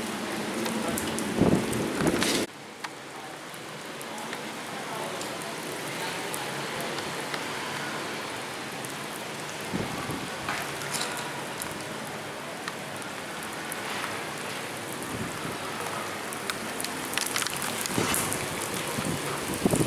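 Steady rain falling, with a scattered few sharper taps of drops. A louder low rumble in the first two seconds or so cuts off abruptly.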